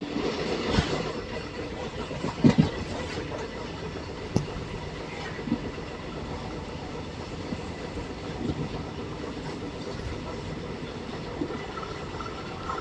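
Train running along the track: a steady rumble with a few short knocks, the loudest a quick pair about two and a half seconds in.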